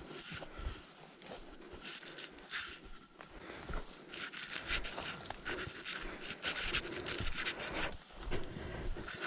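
Footsteps crunching and rustling through dry leaf litter and twigs on a forest floor, irregular and louder from about four seconds in.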